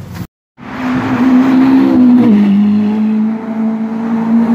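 After a brief silent break near the start, a car engine runs loud at high, steady revs, its note dropping in pitch about two seconds in, like a car passing by, then holding steady.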